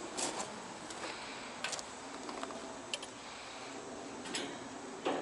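Scattered light clicks and taps of hand work, about seven or eight spread irregularly, with the sharpest one near the end.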